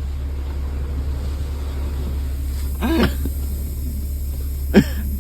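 Steady low rumble of an automatic car wash running over a pickup truck, with a brief voice-like sound about three seconds in and a short sharp sound near the end.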